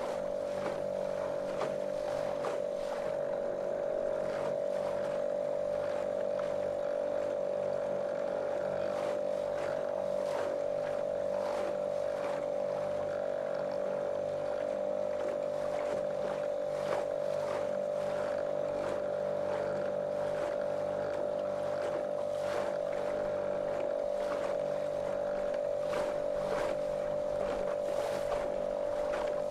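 Small motorboat's motor running at a steady, monotonous drone, its pitch unchanging, with frequent short splashes of water against the hull.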